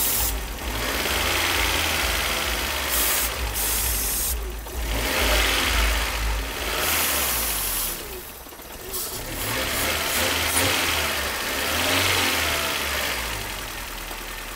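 Toyota 4A-GE four-cylinder engine running at raised revs, its speed swelling and easing several times, while carburettor cleaner is sprayed into the throttle body intake in short aerosol hisses, to clear carbon from the throttle plate behind a high idle.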